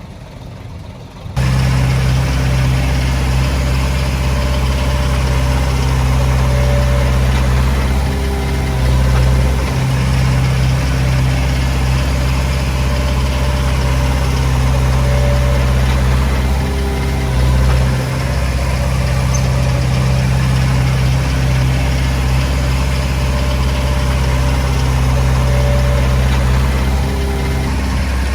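Heavy-equipment diesel engine running steadily with a deep, even hum. It comes in abruptly about a second in.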